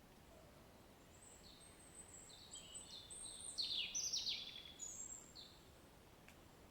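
A songbird singing a varied phrase of high chirps and quick downward-sweeping notes, loudest about halfway through, over a faint steady hiss of rain.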